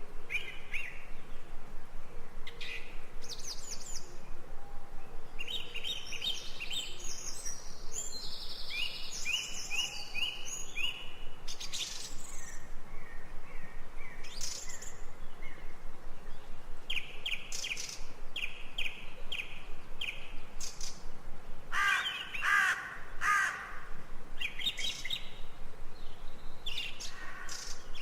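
Birdsong from several birds: repeated series of quick high chirps and trills over a steady faint outdoor background, with a lower, fuller run of calls about three-quarters of the way through.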